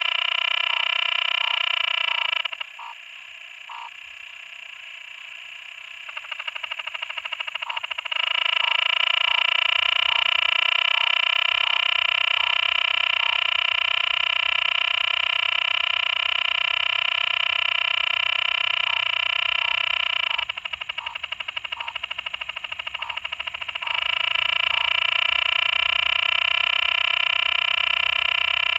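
Physalaemus cicada frog calling: a long, steady call with many evenly spaced tones, loudest in the upper-middle range. Twice it drops to a quieter, finely pulsed sound for a few seconds, about three seconds in and again about twenty seconds in, then returns at full strength.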